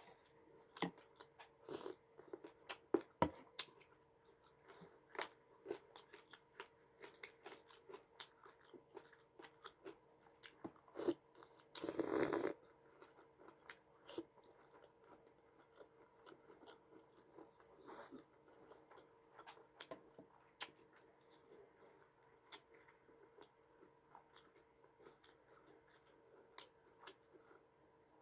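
A person eating close to the microphone: irregular sharp crunches and chewing of crisp food, with one longer noisy burst about twelve seconds in.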